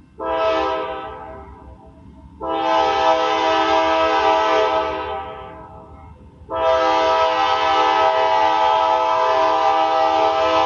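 Freight locomotive's multi-chime air horn sounding three blasts: a short one that dies away, then two long steady ones, over the low rumble of the train.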